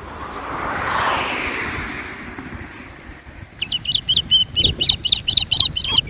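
A songbird singing a fast run of repeated high chirping notes, starting about three and a half seconds in and lasting nearly three seconds. Before it, a broad rushing swell rises and fades, loudest about a second in.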